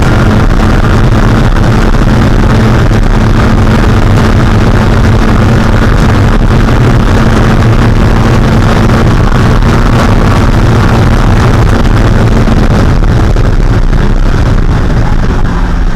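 1.6-litre Mazda Spec Miata four-cylinder engine held at steady high revs under racing load. Near the end its note drops and the level dips.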